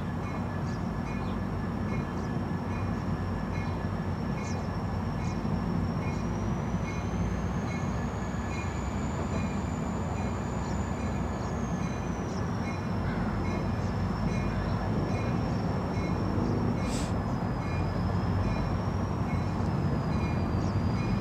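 Approaching train rumbling in the distance, growing louder near the end, while a railroad crossing bell rings steadily, about three strikes every two seconds.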